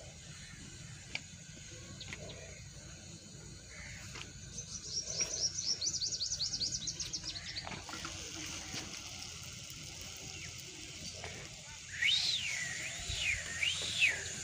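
Birds calling: about four seconds in, a fast run of high chirps lasts about three seconds, and near the end come loud whistled calls that sweep up and down in pitch.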